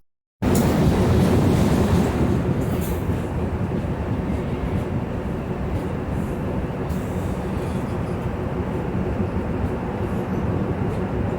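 Diesel-electric multiple unit (DEMU) train running along the line: a steady low rumble of the train on the rails, starting just after a brief cut of silence.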